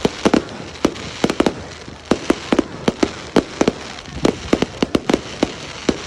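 Fireworks exploding in a rapid, irregular barrage: sharp bangs about three a second over a continuous crackle.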